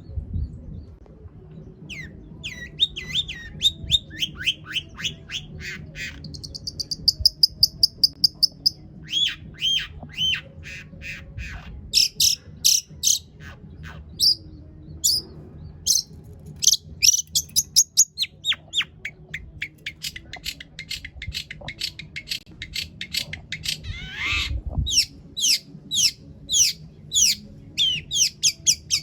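Long-tailed shrike (cendet) singing a long, varied song of rapid runs of sharp repeated notes and falling whistles, with mimicked calls of other birds worked in. About six seconds in there is a fast, even trill.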